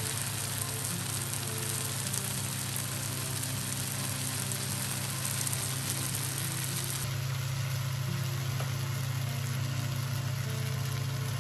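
Pork and vegetable stir-fry sizzling in a wok as an even hiss, over a steady low hum and soft background music.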